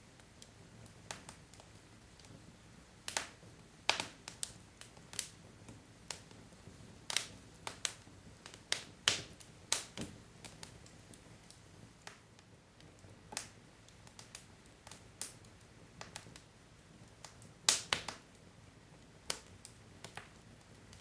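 Burning wood logs in a fireplace crackling: irregular sharp pops and snaps, some louder than others, over a faint low hiss of the fire.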